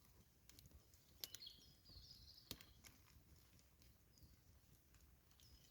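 Faint birdsong, high chirps and twittering calls in a quiet forest, with a few sharp pops from a crackling campfire.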